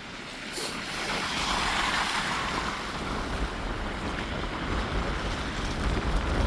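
A passing vehicle's tyres hissing on a snowy, slushy road, swelling and fading over the first few seconds, with wind rumbling on the microphone that grows stronger near the end.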